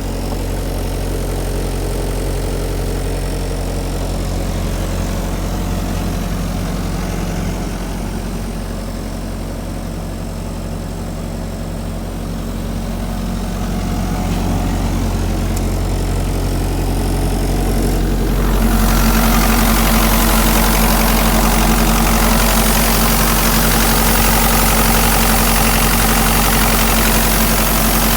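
The diesel engine of a DAS 180LB engine-driven air compressor running steadily on test. About two-thirds of the way through, a loud, even rushing hiss comes in, the engine note changes and the sound grows louder, staying so to the end.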